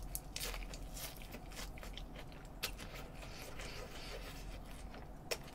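A mouthful of lettuce being chewed: faint, scattered crunches and mouth clicks, with one sharper click near the end.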